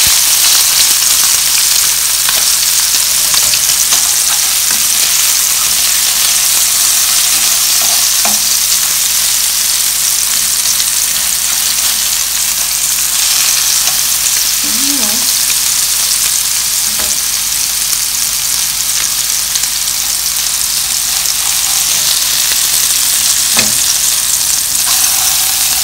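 Minced-meat patties sizzling steadily in hot oil in a frying pan on high heat. A few short taps and scrapes of a metal spatula are heard as the patties are turned.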